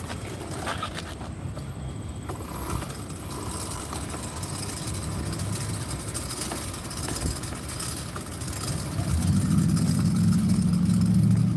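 Car engine running, with a low rumble that grows much louder about nine seconds in as a car comes close.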